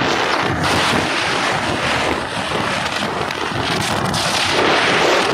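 Wind rushing over the microphone of a motorcycle on the move, a loud steady rush that swells and eases a little.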